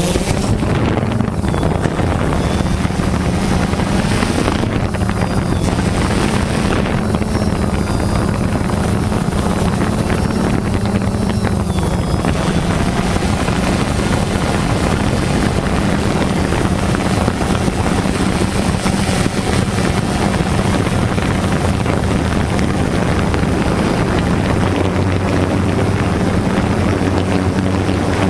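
Quadcopter drone's motors and propellers running with a steady hum.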